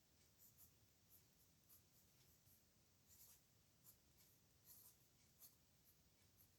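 Faint scratching of a pen nib on paper: short, irregular strokes of handwriting.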